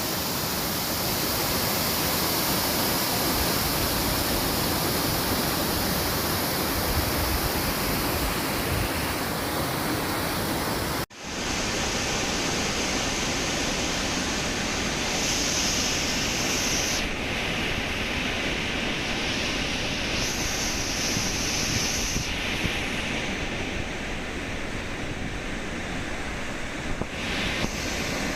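Langfoss waterfall's falling water making a steady, loud rushing noise, broken by a momentary dropout about eleven seconds in.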